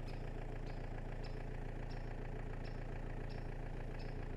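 Vehicle engine running steadily, with a faint tick repeating about every two-thirds of a second.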